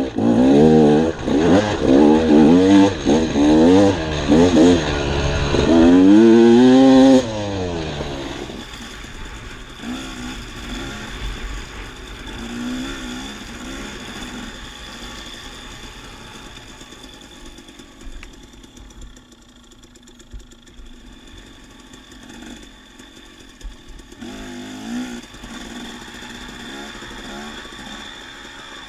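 Dirt bike engine revving hard, its pitch rising and falling with the throttle for about seven seconds. It then drops suddenly to a much quieter low-throttle run with a few light blips.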